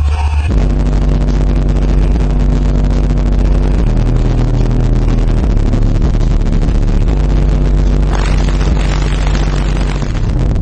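Lightning Audio Strike 12 subwoofer in a ported enclosure tuned to 42 Hz, playing loud, sustained deep bass notes from a bass track. The note shifts about 4 s in and again about 8 s in. A rap song cuts off about half a second in.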